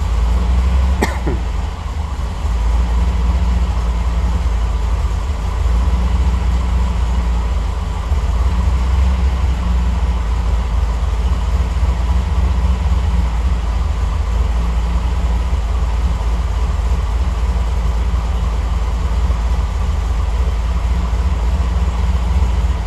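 Triumph TR8's V8 engine idling steadily while still warming up, its warm-up fuel enrichment being adjusted on Megasquirt 3 Pro fuel injection. A brief click about a second in.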